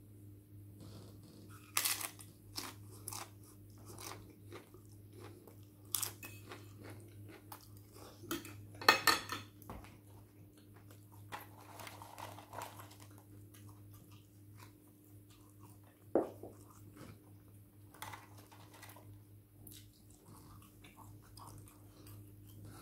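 A person chewing and biting crunchy food close to the microphone, with irregular crunches, the loudest cluster about nine seconds in, over a faint steady hum.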